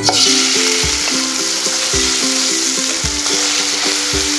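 Marinated pork liver and heart sizzling loudly in hot oil in a wok over high heat, the sizzle starting suddenly as the meat goes in and holding steady while it is stirred with a wooden spatula.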